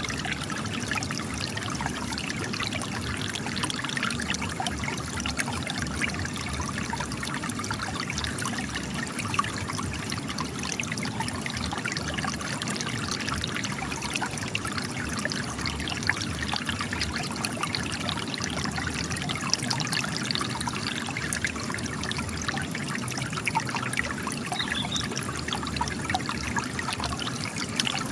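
Spring water gushing and trickling out of cracks in rock, a steady splashing and dribbling that runs on without a break.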